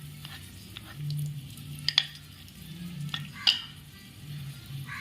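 Chopped onion frying in hot oil in a kadai with bay leaf, cinnamon and cloves, a soft steady sizzle. Two sharp clicks stand out, about two seconds and three and a half seconds in.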